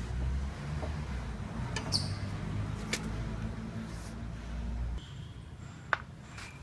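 Short squeaks from a Bajaj Pulsar 220F's front wheel, a few seconds apart, over a low rumble that stops about five seconds in. The squeak comes from the front wheel's worm gear, which needed cleaning and greasing.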